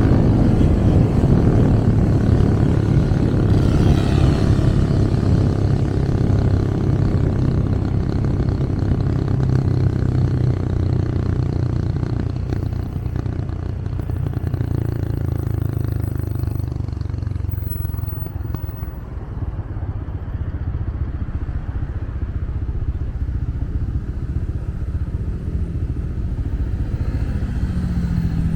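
Motorcycle taxi's engine running under way, with road and wind noise; the engine note eases off about two-thirds of the way in, then picks up again near the end.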